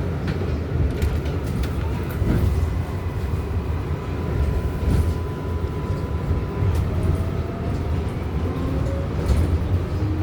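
Interior of an R188 subway car running between stations: a steady rumble of wheels on rail, with a thin electric whine from the propulsion that holds for a few seconds and then gives way to rising tones near the end.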